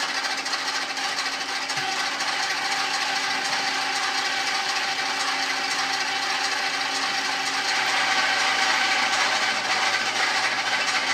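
Pneumatic drill, mounted in a fixture on a lathe's compound, running steadily while drilling a hole in metal: a hissing air-motor noise with a steady hum. It starts abruptly.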